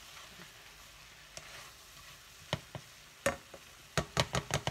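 Poblano strips, corn and chicken sizzling softly in a saucepan while a plastic slotted spatula stirs them, knocking against the pan a few times. There is a quick run of knocks near the end.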